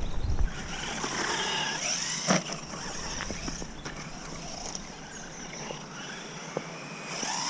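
Electric motor of a 1/10 RC monster truck whining as it is driven, its pitch wavering with the throttle, with the tyres running over the track. A sharp knock about two seconds in.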